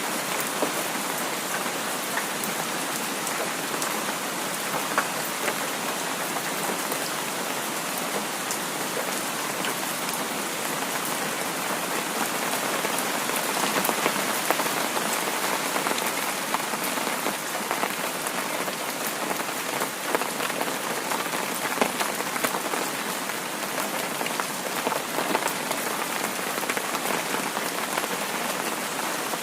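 Heavy rain falling steadily, with single drops standing out as sharp ticks through the even hiss.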